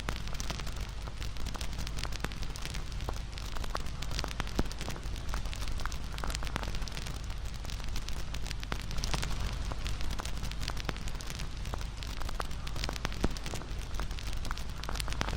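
Wood fire burning with a steady low rumble of the flames and frequent irregular crackles and pops from the burning wood.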